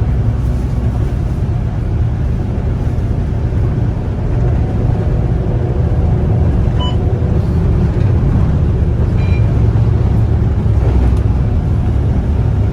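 Volvo B9TL double-decker bus under way, heard from inside: a steady low rumble from its engine and drivetrain. Two short faint beeps sound about two-thirds of the way through.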